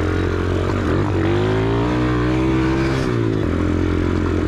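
Dirt bike engine running, its pitch rising about a second in, holding, then dropping back just after three seconds as the throttle is opened and then eased off.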